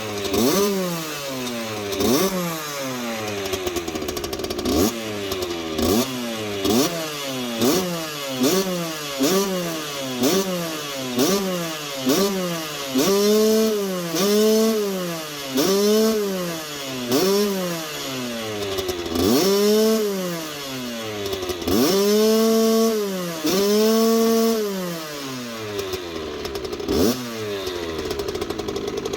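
Kawasaki KX65's small single-cylinder two-stroke engine being blipped: quick sharp revs about once a second, then longer revs held for a second or so each, falling back to idle near the end.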